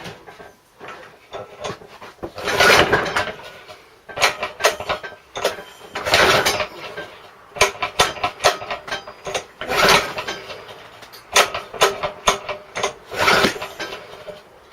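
Recoil pull starter on a 3.5 hp Briggs & Stratton lawn mower engine yanked four times, about every three and a half seconds, with rattling clicks between pulls. The engine cranks over but does not start; it has spark, compression and fuel primed down the plug hole.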